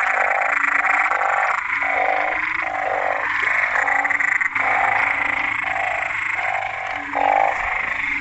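A chorus of banded bullfrogs calling after rain: a long run of repeated croaking calls, each about half a second long, coming about one and a half a second without a break, over a steady higher-pitched background chorus.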